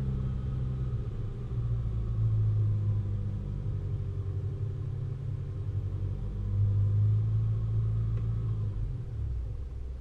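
A vehicle engine running with a steady low rumble that swells twice as it works harder.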